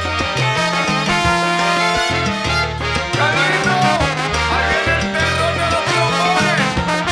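Salsa band playing an instrumental passage: bass line, Latin percussion and brass, with bent melody notes from about three seconds in.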